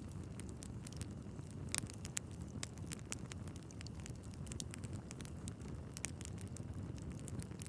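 Wood fire burning in a fireplace: a steady low rumble of flames with irregular sharp crackles and pops from the logs, the loudest pops about two seconds and six seconds in.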